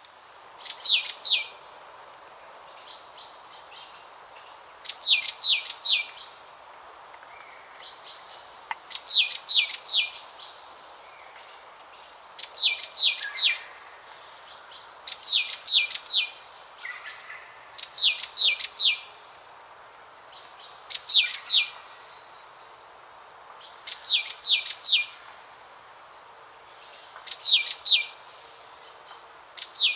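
A songbird singing the same short phrase over and over, about every three seconds, each phrase a quick run of high chirps, over a steady background hiss.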